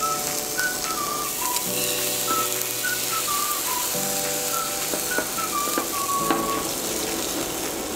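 Bánh xèo batter sizzling in a hot oiled frying pan as it is ladled in over the shrimp, squid, pork and bean sprouts, a steady hiss throughout. Background music with a light melody plays over it.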